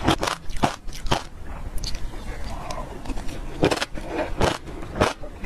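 Close-up mouth sounds of passion fruit seeds being bitten and chewed: a run of sharp, irregular crunches, quieter for a couple of seconds in the middle before the crunching picks up again.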